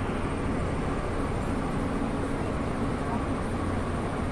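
Steady rumble and hum inside an SFO AirTrain people-mover car.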